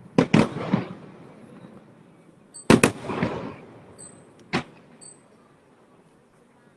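Aerial firework shells bursting: a quick run of three booms, then the loudest double bang about two and a half seconds in and one more about four and a half seconds in, each trailing off in a rolling echo.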